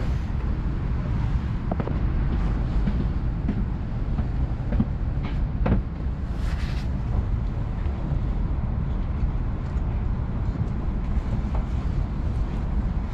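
Tohoku Shinkansen train heard from inside the passenger cabin, moving slowly out of the station: a steady low rumble of the running train, with a few short clicks and knocks and a brief hiss about six and a half seconds in.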